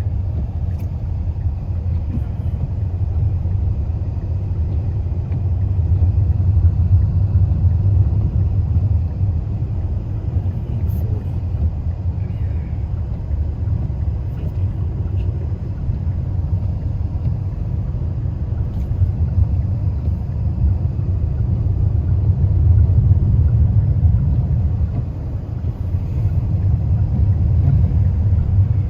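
Steady low rumble of a car driving on a winter highway: road and engine noise, swelling and easing slightly over several seconds.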